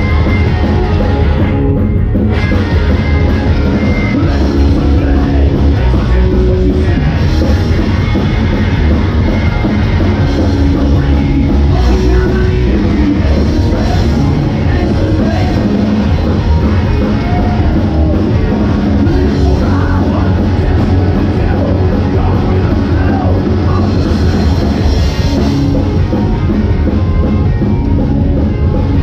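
Loud rock music with drum kit, guitars and singing, playing continuously.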